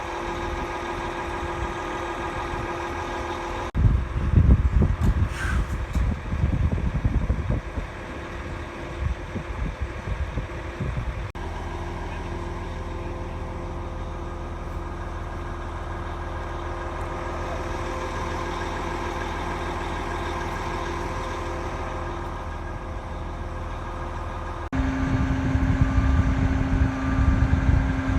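Scania V8 lorry engine running, heard in a string of cut-together clips: a steady even engine hum alternating with louder, rougher rumbling passages. Near the end a short beep repeats about every 0.7 seconds over the engine, like a reversing alarm.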